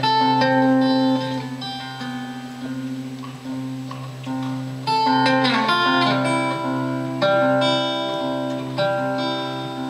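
Live acoustic guitar playing an instrumental break in a folk song, with ringing notes and chord changes and no singing. Partway through, a note bends downward in pitch.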